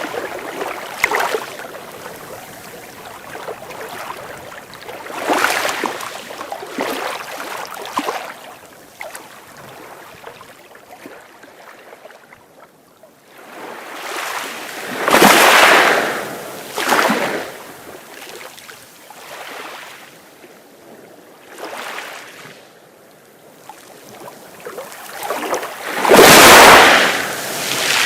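Sea waves breaking and washing onto a beach, coming in surges every few seconds, the two largest about halfway through and near the end.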